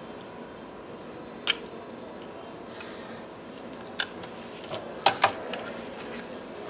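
Four sharp clicks of parts or hand tools being handled, the last two close together, over a steady background hiss.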